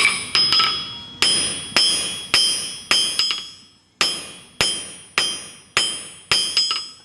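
Blacksmith's hammer striking hot steel bar stock on an anvil, evening up a drawn-out handle: about two blows a second, each with a ringing anvil tone, and a short pause about halfway.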